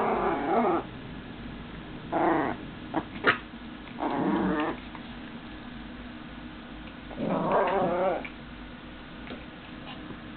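Dogs play-fighting, growling in four bursts of a second or less, with two sharp clicks about three seconds in.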